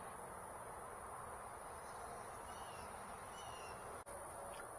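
Quiet background hiss with a steady high-pitched whine and a few faint short chirps about halfway through.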